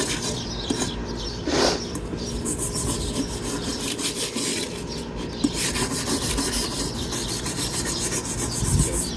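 Repeated scraping strokes across a steel M1 helmet shell, lifting paint softened by chemical stripper.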